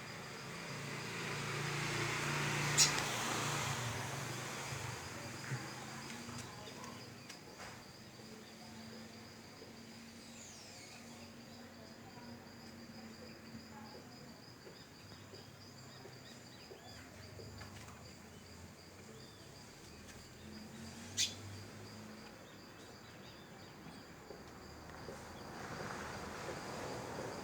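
Outdoor ambience with a steady high insect trill, like crickets, over distant traffic noise that swells near the start and again near the end. Two sharp clicks stand out, one a few seconds in and one near the end.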